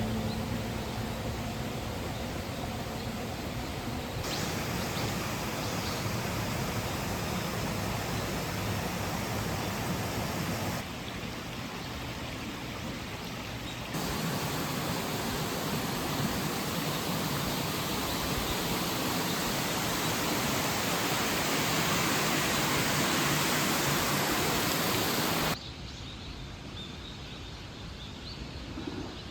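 Steady rushing water of the Minoh River and its falls. It jumps in loudness at a few abrupt cuts and drops to a much quieter rush near the end.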